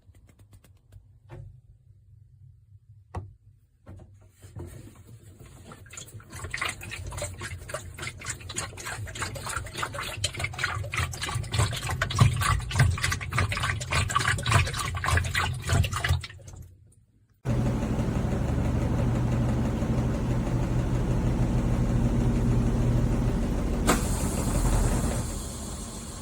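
Water running into a top-loading washing machine tub, building to a splashing pour over about a dozen seconds. After a sudden cut comes a steady hum of the machine churning water, which drops lower after a click near the end.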